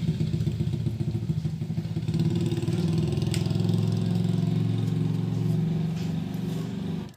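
Engine idling steadily with a fast, even pulse, cutting off abruptly near the end.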